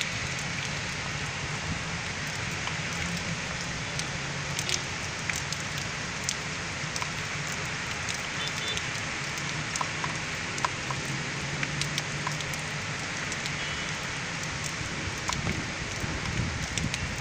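Steady heavy rain falling, with scattered sharp ticks of drops landing close by and a faint low hum underneath.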